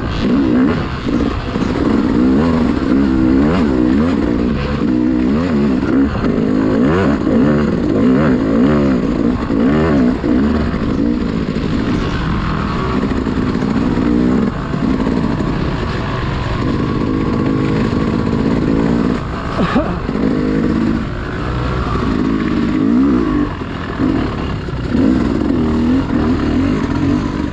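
Dirt bike engine running under load, its revs rising and falling constantly as the throttle is worked over rough trail.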